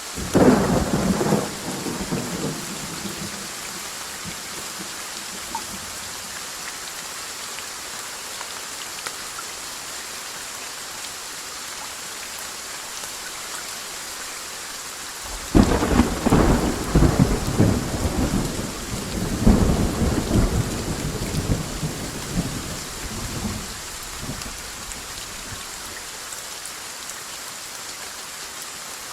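Steady rain falling, with thunder: a sudden clap just after the start that rumbles away over a couple of seconds, then about halfway a longer rolling peal that swells again a few seconds later before dying away.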